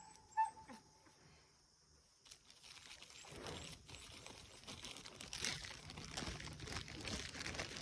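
Irregular crinkling and crunching noises, starting about two seconds in and growing louder toward the end.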